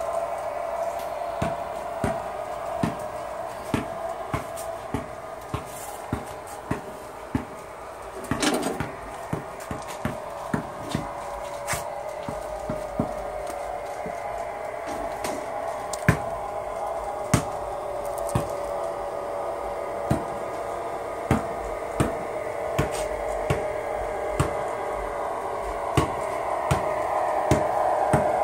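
Sound decoder of an HO-scale model diesel locomotive playing a steady diesel engine drone through its small speaker, with sharp clicks about once or twice a second from the model's wheels over rail joints. A short cluster of louder knocks comes about a third of the way in, and the drone grows slightly louder near the end.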